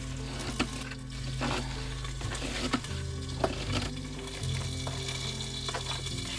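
Boneless chicken thighs sizzling in olive oil in a Dutch oven, with several sharp knife clicks and scrapes against a plate as chopped onion is scraped off, over background music.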